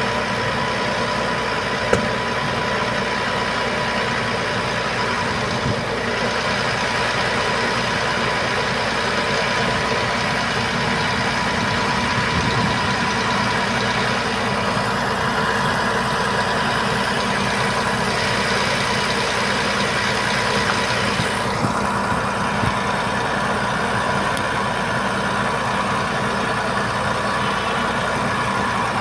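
Diesel engine of an Iveco Trakker 380 boom truck running steadily at idle, with a constant whine over it. A single sharp click about two seconds in.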